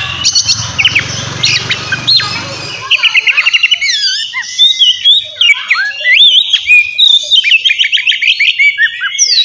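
Oriental magpie-robin (kacer) singing loudly and continuously: fast runs of repeated notes mixed with sliding whistles. A low rumbling noise runs under the song for about the first three seconds.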